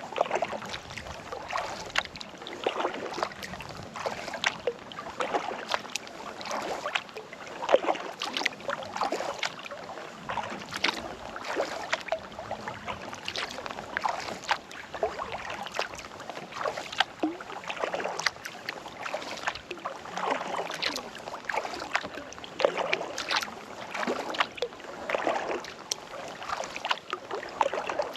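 Kayak paddle strokes in calm lake water: clusters of splashes and drips as each blade dips in and lifts out, repeating every couple of seconds, with light wind on the microphone.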